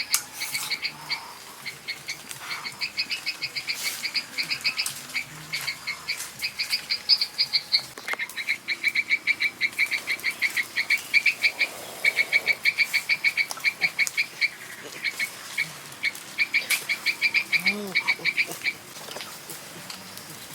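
Animal calls in rapid, evenly pulsed trills, about ten pulses a second, each run lasting one to two seconds and repeating with short gaps, one caller often overlapping another.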